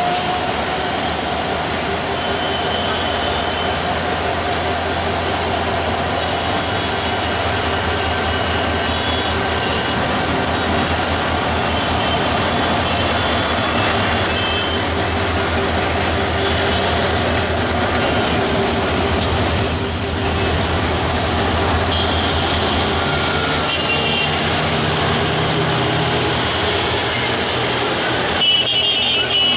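Diesel-hauled passenger train pulling slowly out of the station through a curve: a steady high-pitched wheel squeal held over the locomotive's low engine rumble.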